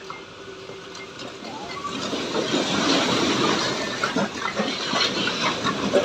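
A load of bricks unloading from a tractor trolley: from about two seconds in, a rising rush of bricks sliding and clattering against each other, breaking up into separate knocks near the end.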